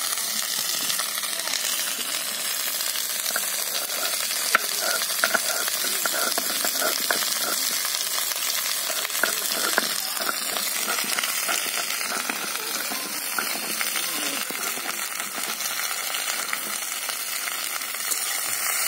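Sliced okra frying in hot mustard oil in a kadai, a steady sizzle, with a few light clicks and knocks about four to ten seconds in.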